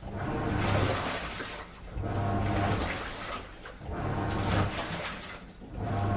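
Washing machine on a strong wash cycle, the drum turning and sloshing water and clothes in surges about every two seconds, each with a low motor hum, dipping between turns.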